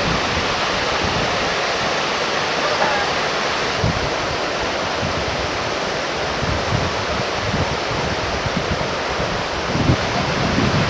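Ryumon Falls waterfall: a steady, loud rush of falling water, with short low rumbles of wind on the microphone now and then.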